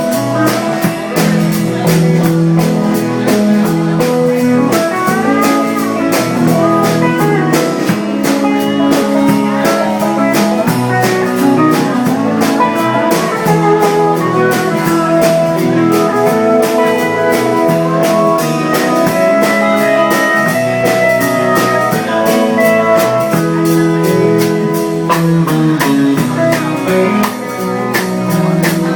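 Live band playing an instrumental break of a honky-tonk country song: melody lines that hold and bend over a steady beat.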